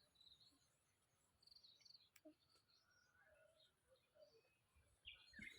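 Near silence outdoors, with a few faint, high bird chirps.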